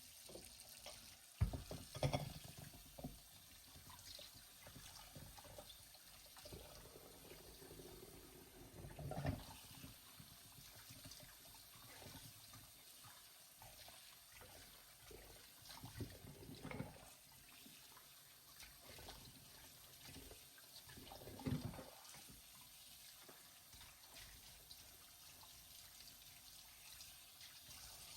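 Water running into a sink, with scattered clinks and knocks of things being handled in it.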